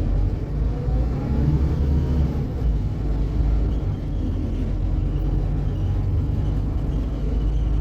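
Scania K280UB city bus running on the road, heard on board: a steady low engine and road rumble, with a faint rising whine in the first two seconds as it gathers speed.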